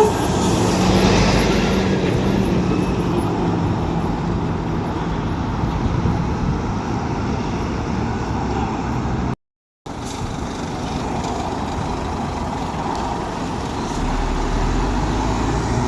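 Lorry engines running with surrounding road traffic noise, a steady low rumble. The sound cuts out completely for a split second a little past halfway.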